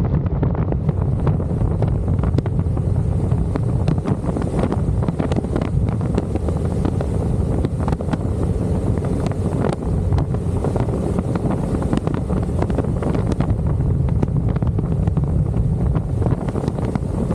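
Wind buffeting the microphone of a camera on a moving motorcycle: a loud, steady low rush.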